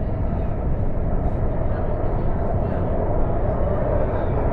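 Cabin noise of a CAF AS-14 metro train running between stations: a steady rumble of wheels on rail and running gear, with no breaks or sudden sounds.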